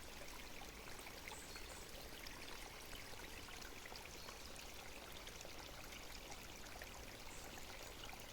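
Babbling water, a steady trickling splash peppered with many small droplet clicks.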